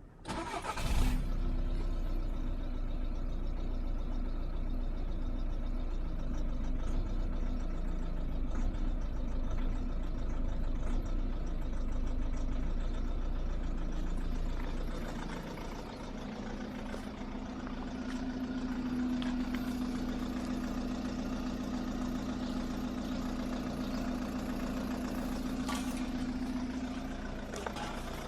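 Volkswagen Golf 1.6 TDI four-cylinder diesel engine starting from cold about a second in, then idling rough, the owner's complaint on cold starts. The idle note shifts about halfway through and settles into a steadier hum.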